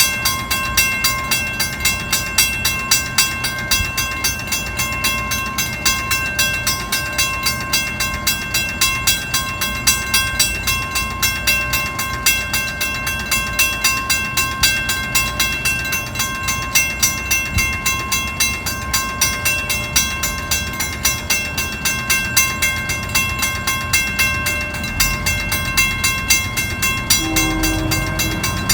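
A train at a station with a rapid, steady ringing over a low rumble throughout. Near the end a train horn sounds in a few short blasts.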